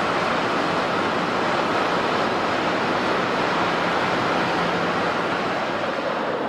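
Jet airliner engines heard at a distance, a steady rushing noise with no breaks and a faint low hum underneath.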